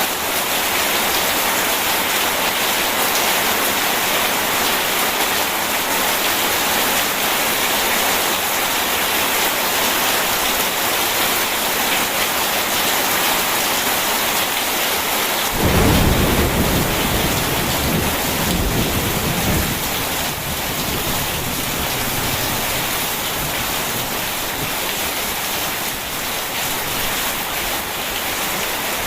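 Steady heavy rain, with a clap of thunder breaking in about halfway through and rumbling off over a few seconds.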